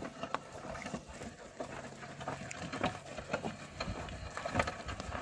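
Irregular soft knocks and scuffs of oxen hooves and footsteps on field soil.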